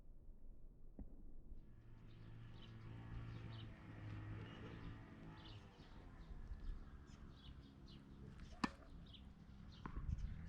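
Faint outdoor ambience: birds chirping over a steady low rumble, with a single sharp knock about eight and a half seconds in.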